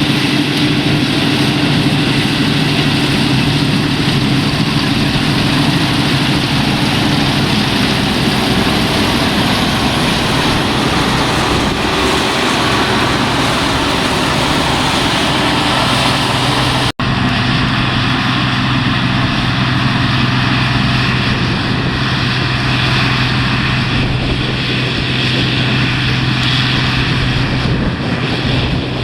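Older combine harvester running steadily while cutting a crop, its engine and threshing machinery giving a loud, even drone. About 17 s in the sound cuts out for an instant and the drone carries on at a slightly different pitch.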